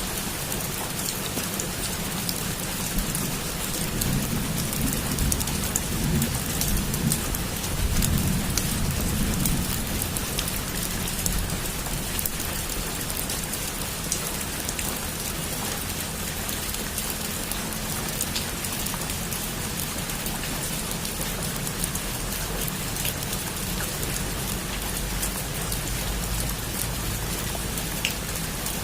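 Heavy rain falling steadily on a roof: a dense even hiss with single drops ticking through it. A low rumble of distant thunder swells from about four to ten seconds in.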